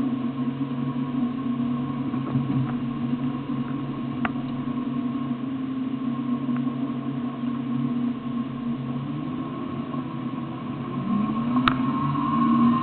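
Off-road SUV's engine running at low revs as it crawls along a rough forest trail. About eleven seconds in the revs rise, with a single sharp click just before the end.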